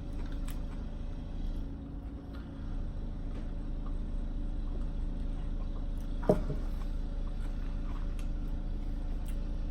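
A steady low mechanical rumble from noisy work going on in the building, with one short sharp sound about six seconds in.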